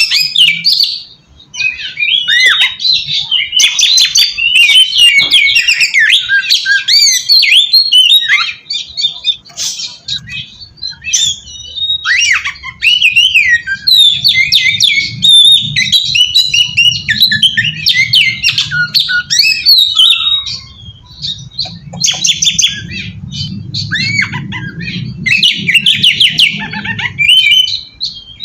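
Oriental magpie-robin singing a loud, varied song of quick whistles, chatters and harsh notes, broken by a few brief pauses. This is the kind of full territorial song played as a lure to make other magpie-robins answer.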